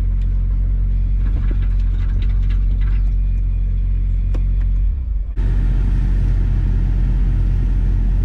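Steady low rumble of vehicle road noise, with a few faint clicks in the first three seconds. About five seconds in it cuts abruptly to a similar rumble with more hiss on top.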